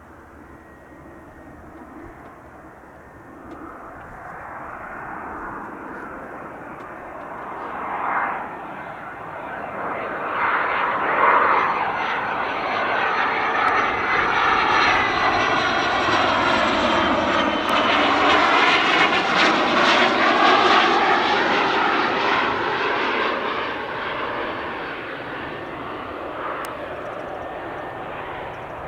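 Cessna Citation XL business jet on landing, its twin turbofans whining and growing steadily louder as it comes in and passes. The sound peaks about two-thirds of the way through, then fades.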